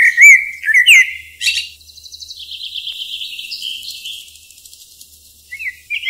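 Birds chirping: a few short sliding chirps, then a fast high trill lasting about three seconds, and more chirps near the end.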